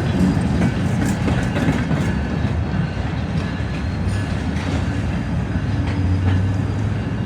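Freight train rolling along the track: a steady rumble of the cars, with the steel wheels clicking now and then over the rails.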